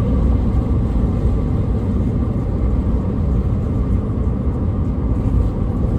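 Steady road and engine rumble inside a car's cabin while driving at highway speed.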